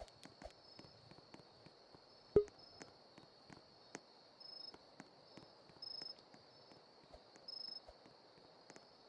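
Faint outdoor ambience: a steady high-pitched insect-like trill, with short high chirps about every second and a half in the second half, and one sharp knock about two and a half seconds in.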